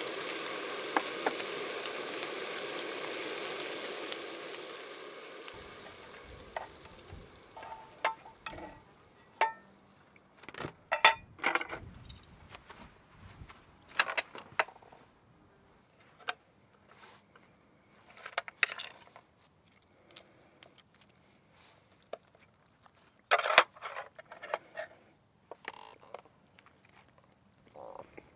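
A steady hiss that fades away over the first five seconds, then scattered clinks, knocks and clatters of small hard objects being handled.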